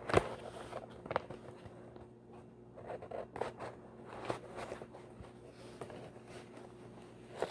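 Papers and envelopes rustling and crinkling as they are sorted through by hand, with a sharp handling knock right at the start and scattered crisp crackles after it. A faint steady hum runs underneath.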